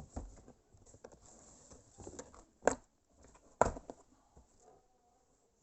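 Soft plastic drill carrying case being handled and opened, rustling and knocking, with two sharp clicks about a second apart midway, typical of the case's catches being unsnapped.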